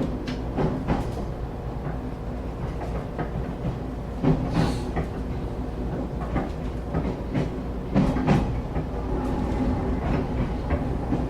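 Passenger train heard from inside the carriage while running: a steady low rumble with irregular knocks and clicks from the wheels and carriage. There is a brief hiss about four and a half seconds in and a louder cluster of knocks around eight seconds.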